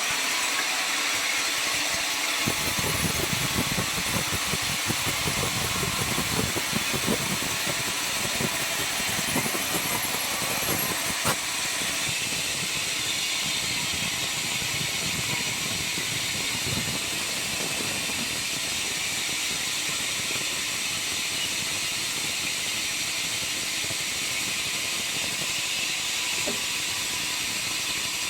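Sawmill circular saw machine running, sawing an albasia log: a steady high hiss throughout, with a rough rumbling that comes in about two seconds in and eases about twelve seconds in.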